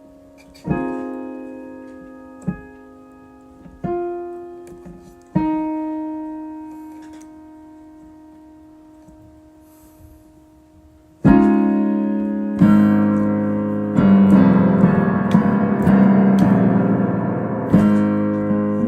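Solo improvised piano: a few sparse chords, each left to ring and fade, then several quiet seconds as the last one dies away. Past the middle, loud low chords come in and the playing turns fuller and busier.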